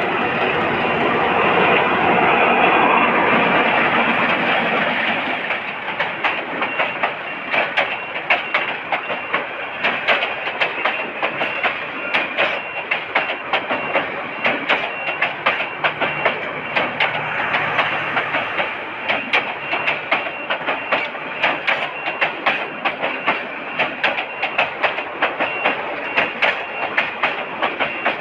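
A passenger train running on the track. A loud, even rumble for the first few seconds gives way to the wheels clattering over rail joints in a quick, regular rhythm.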